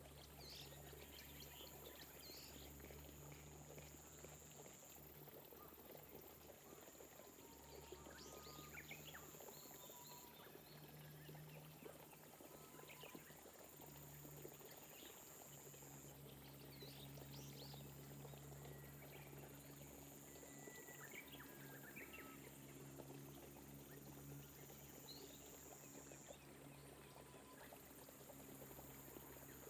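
Faint, steady light rain falling on rice paddy terraces, with short bird calls here and there.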